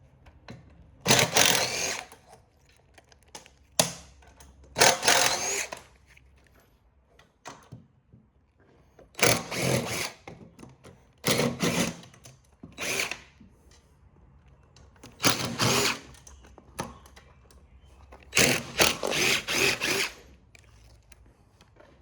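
Power drill run in a series of short bursts, about seven trigger pulls of under a second to over a second each with pauses between, while screws are driven out of the printer's panels.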